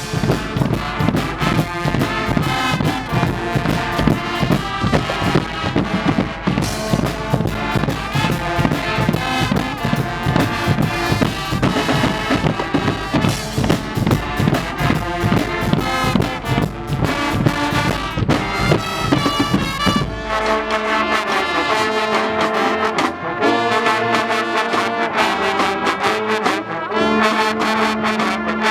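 Guggenmusik carnival band playing loud brass with trumpets and trombones over heavy drumming. About two-thirds of the way through, the deep bass drums drop away and the brass plays on in held chords with lighter percussion.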